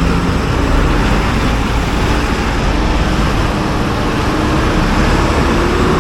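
Steady road traffic noise with vehicle engines running. One engine rises slowly in pitch in the second half as it speeds up.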